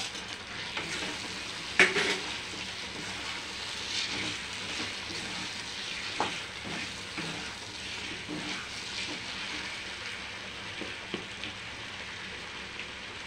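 Potato and carrot pieces sizzling as they fry in tomato masala in a kadai, stirred with a steel ladle that scrapes and clicks against the pan. One sharp knock about two seconds in.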